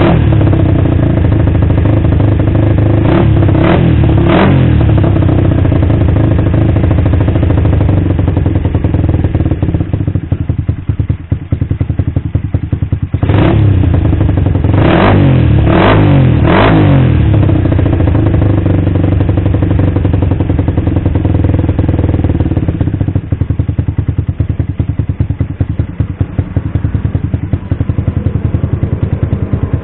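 Suzuki Satria FU's 150 cc four-stroke single running through an aftermarket exhaust, idling steadily with short throttle blips: a quick rev at the start, three in a row a few seconds in, then another set of four about halfway through, each rising and falling back to idle.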